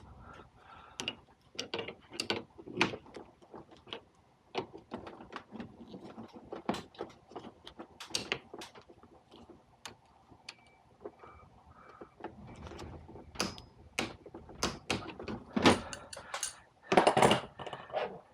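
Hand tools working on an air-conditioner's refrigerant pipe joints: irregular clicks, taps and metal knocks, with a louder burst of clatter lasting about a second near the end.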